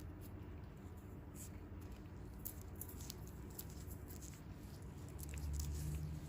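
Close-miked soft, irregular scratching and crackling of hands working on the skin of bare feet, over a low steady hum that swells briefly near the end.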